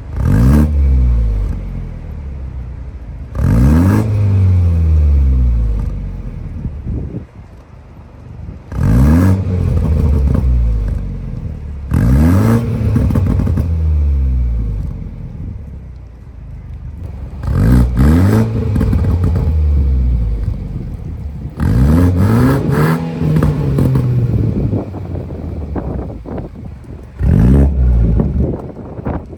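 BMW 330i's 2.0-litre turbocharged four-cylinder engine being revved through a valved Valvetronic sport exhaust. The pitch climbs and falls back to idle about seven times, every few seconds.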